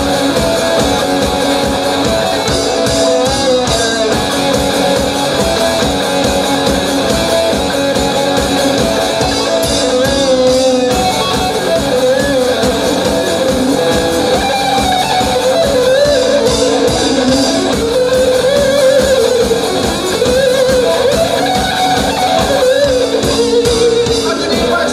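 Rock band playing an instrumental break: a guitar-led melody with bending notes over a steady drum beat and bass.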